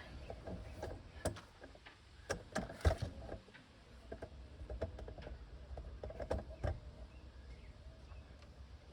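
Scattered light clicks and knocks of hands working tape off a rubber wiring grommet, with one louder knock about three seconds in.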